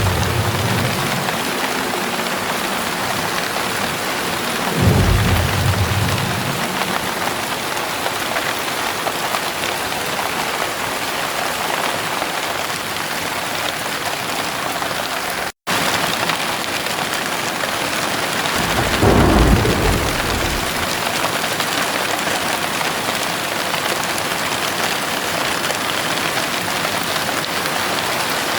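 Heavy rain falling steadily, with two low rumbles of thunder, one about five seconds in and a longer one about two-thirds of the way through. The sound cuts out for an instant about halfway.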